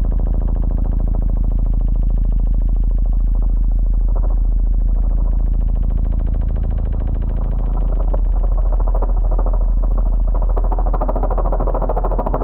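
A loud, steady low-pitched tone played through a loudspeaker for cymatics, with a buzzing, rattling texture over it from the charcoal vibrating on the speaker.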